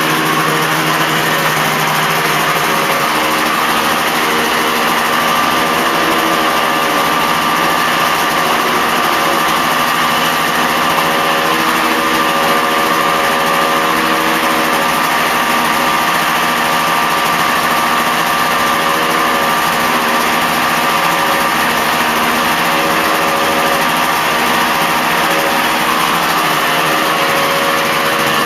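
Two-stroke motorcycle engine running steadily, its pitch holding about level throughout.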